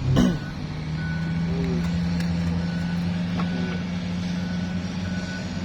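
A vehicle reversing alarm giving short high beeps about once a second over the steady drone of a running engine, with a sharp knock right at the start.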